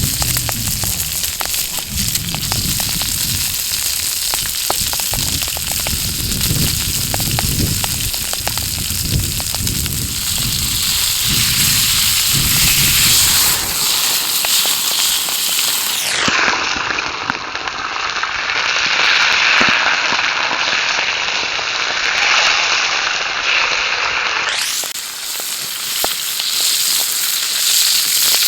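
Wood campfire crackling with many sharp pops over a steady sizzle of steak searing on the fire. About halfway through, the sound turns for several seconds to a thinner, hissing sizzle.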